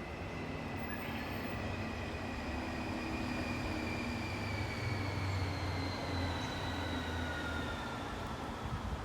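A passing vehicle, heard as a low rumble under a high whine that slowly falls in pitch, swelling to its loudest about halfway through and then fading.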